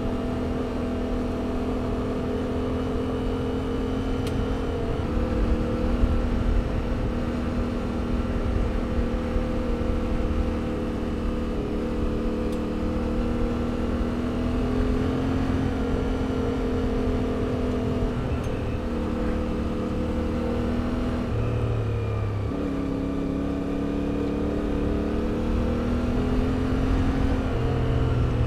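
CFMOTO 450MT's parallel-twin engine running steadily under way, its pitch stepping down a few seconds in, dipping and rising again later, and climbing near the end.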